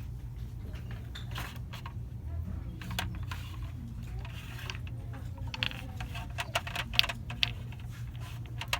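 Scattered light clicks and clinks of handled store merchandise, coming thicker and louder in the second half, over a steady low hum of store background.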